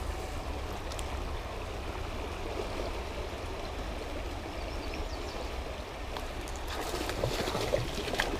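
River water flowing steadily over the streambed, with a low rumble underneath. A few light clicks and rustles come near the end.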